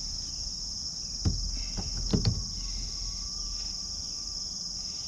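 Steady high-pitched insect chorus of crickets, unbroken throughout. A few short knocks about a second in and again about two seconds in.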